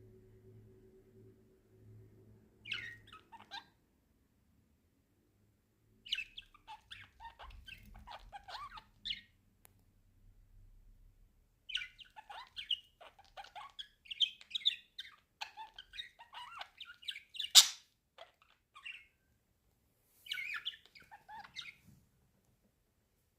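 Pet budgerigars chattering in bouts of quick, jumbled warbles and chirps, broken by pauses of a few seconds. A single sharp click, the loudest sound, comes about three-quarters of the way through.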